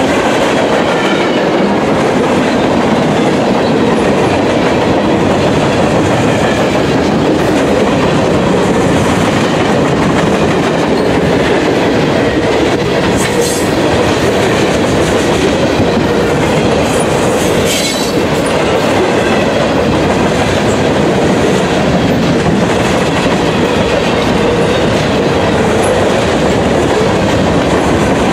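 Freight cars of a CSX manifest train (boxcars and tank cars) rolling past close by: a loud, steady noise of steel wheels running on the rails, with two sharp clicks partway through.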